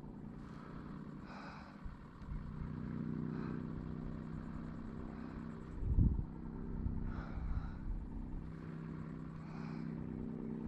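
A motor engine running steadily, a low even hum that comes in about two seconds in, with a single low thump about six seconds in.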